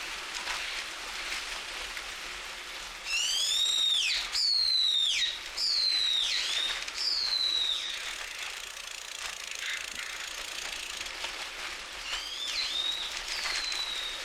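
A bird calling: a run of loud, shrill whistled calls, each sliding down in pitch, bunched in the middle, with two fainter calls near the end.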